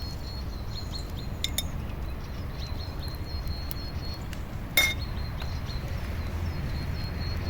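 A single sharp clink of tableware about five seconds in, briefly ringing, with a couple of fainter ticks earlier, over a steady low outdoor rumble.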